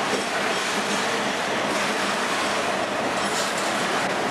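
Loaded iron ore gondola cars of a freight train rolling past close by: the steady noise of steel wheels running on rail.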